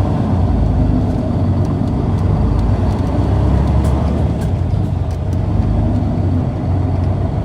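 Isuzu Erga city bus (PKG-KV234L2) diesel engine running, heard from inside the passenger cabin as a steady low hum. The engine has an unusual noise that the recordist calls an abnormal-sounding engine.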